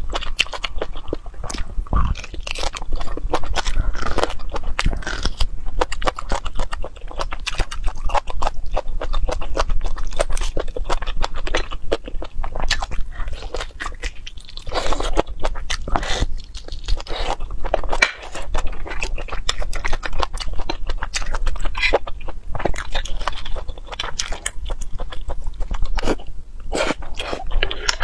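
Close-miked wet chewing and mouth sounds of a person eating beef bone marrow, with many sticky clicks and smacks in a busy, continuous stream.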